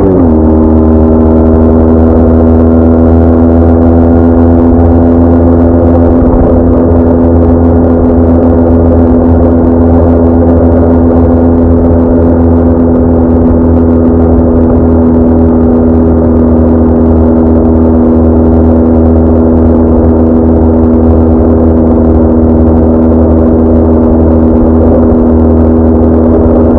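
BMW R1200R flat-twin motorcycle engine under way. Its revs drop sharply right at the start, then hold at a steady cruising pitch with a low rumble underneath.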